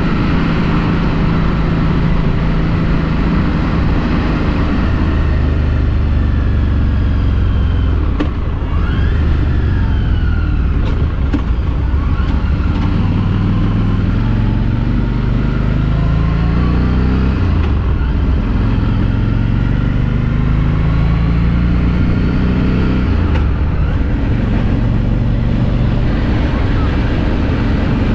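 2016 Harley-Davidson Street 500's stock-exhaust V-twin engine running under way, its revs dropping about 8 seconds in and then climbing in several rising sweeps, with steady wind rush.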